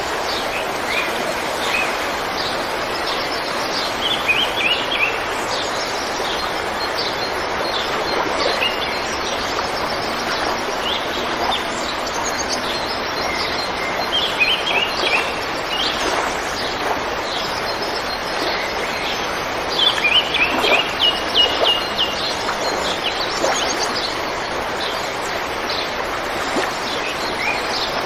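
River water flowing steadily, with small birds chirping over it; the chirps come in quick runs of repeated notes, densest about four seconds in, around fourteen seconds and around twenty seconds.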